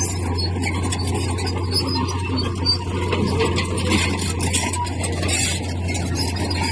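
Komatsu bulldozer's diesel engine running steadily under work, a constant low drone with scattered metallic clicks from the machine.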